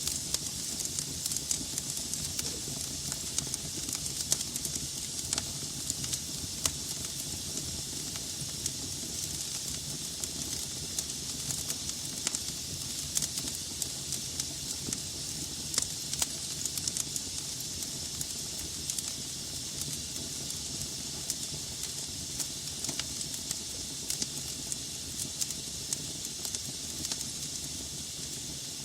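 Logs burning in a fireplace: a steady hiss and low rumble of flames, with frequent sharp crackles and pops scattered throughout.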